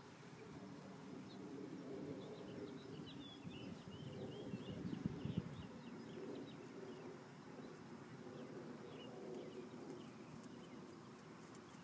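Small birds chirping in short quick calls, busiest in the first half, over a low steady outdoor rumble.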